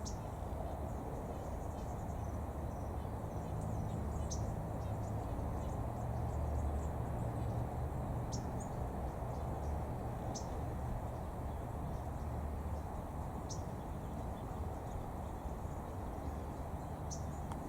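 Outdoor ambience: a steady low rumble with short, high bird chirps every few seconds, about six in all.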